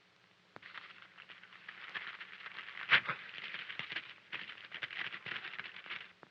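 Paper crackling and rustling as a letter is handled and opened, with one sharp louder crackle about three seconds in.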